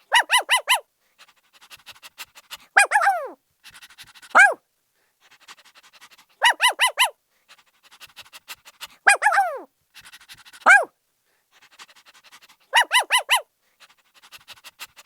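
Puppy barking in high-pitched yips: runs of about four quick yaps alternate with single yelps that fall in pitch, a burst every second or two.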